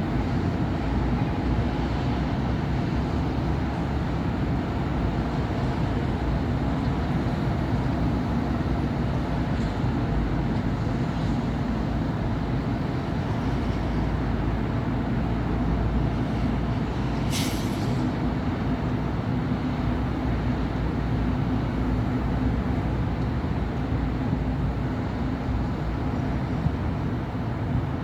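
Steady city traffic on a busy avenue: cars and buses passing in a continuous rumble of engines and tyres. About two thirds of the way through, a short sharp hiss of air stands out, typical of a bus's air brakes.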